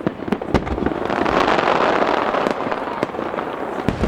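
Aerial fireworks bursting: several sharp bangs in the first second, then a dense wash of crackling noise for a couple of seconds, with more scattered bangs near the end.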